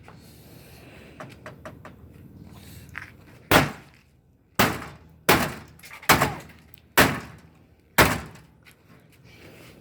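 Whirlpool Duet steam washing machine being smashed: a few light clicks, then six heavy thunks about a second apart as its cheap plastic parts are struck and broken.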